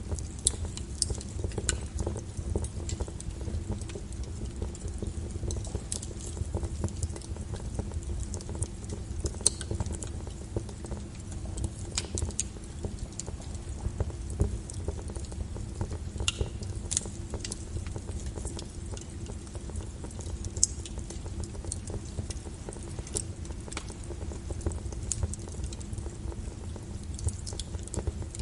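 Wood burning in a fireplace: a steady low rumble of flames with irregular sharp crackles and pops from the logs.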